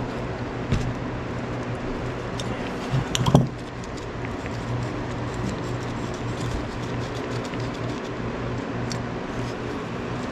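Scattered light clicks and taps of small metal carburettor parts and hand tools being handled, with a short louder clatter about three seconds in, over a steady low hum.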